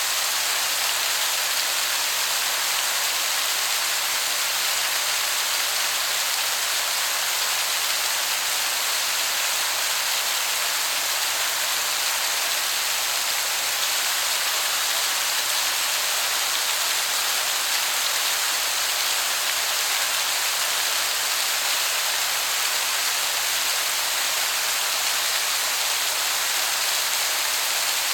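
Waterfall rushing in a steady, even hiss that sounds like heavy rain.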